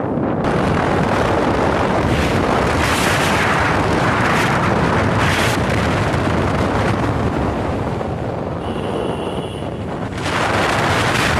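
Wind buffeting the microphone: a loud, rough rushing that eases a little about eight seconds in, when a faint high whistle-like tone shows briefly, then comes back up near the end.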